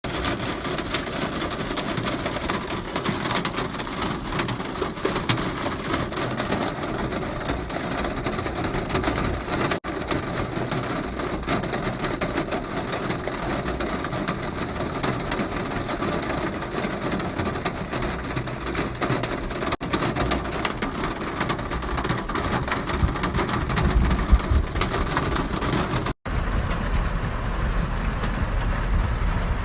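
Heavy rain pouring steadily, a dense hiss full of drop hits. After a brief cut-out near the end it turns duller, with a stronger low rumble.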